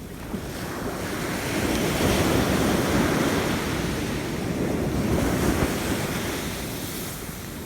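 Sea waves surging: a rushing wash that swells about two seconds in and eases off toward the end.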